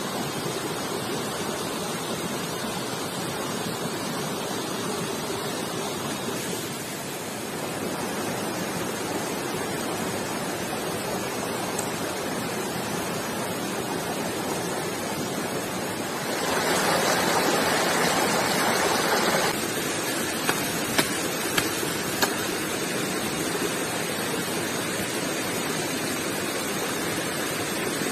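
Stream water rushing steadily, growing louder for about three seconds past the middle of the clip. A few sharp clicks follow shortly after.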